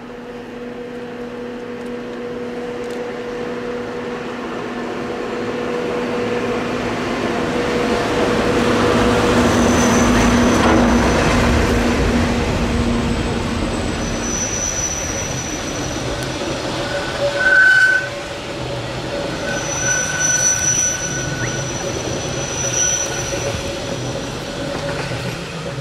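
Matterhorn Gotthard Bahn HGe 4/4 II rack-and-adhesion electric locomotive and its passenger coaches passing: a steady electric hum that grows louder until the locomotive goes by about ten seconds in, then the coaches rolling past with several brief high squeals, the sharpest near the two-thirds mark.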